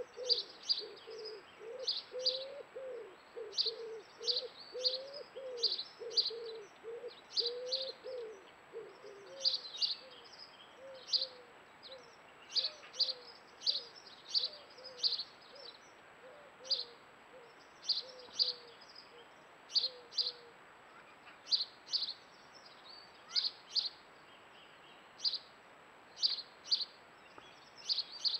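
Wild birds calling: a run of short, high chirps repeated every fraction of a second throughout, over a lower series of repeated calls that grows fainter and stops about two-thirds of the way through.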